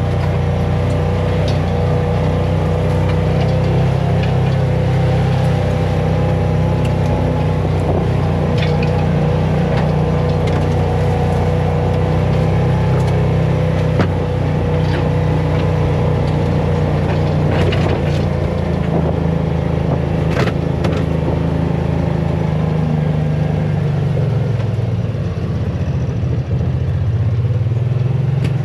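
A farm vehicle's engine running steadily while driving, with scattered light rattles and knocks. About 25 seconds in, the engine note drops briefly and then picks back up.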